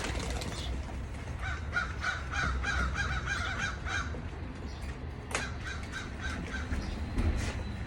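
A bird giving a run of short, repeated calls, about four a second, for a few seconds, then a second shorter run after a sharp knock near the middle.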